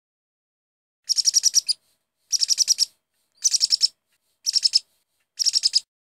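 A bird chirping in five short bursts of rapid, high chirps, each burst about half a second long and about a second apart.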